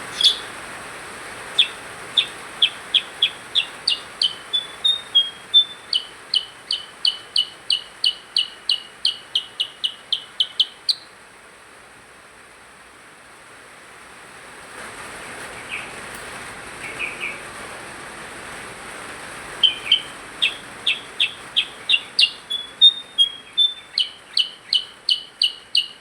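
A small songbird, the percang, singing vigorously: long runs of sharp, evenly repeated high notes, about three a second, in two phrases of several seconds each with a pause of several seconds between them.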